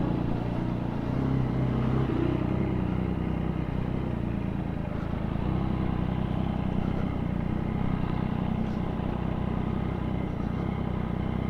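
Motorcycle engine running steadily at low revs while riding slowly. The revs rise briefly about a second in, then ease off.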